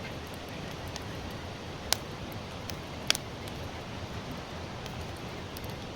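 Campfire of burning sawtooth oak firewood crackling, with two sharp loud pops about two and three seconds in and lighter ticks between, over a steady hiss.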